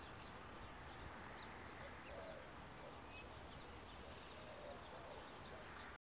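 Faint wild birds calling over a steady background hiss: scattered high chirps, and a couple of short, low cooing notes about two seconds in and again near the end.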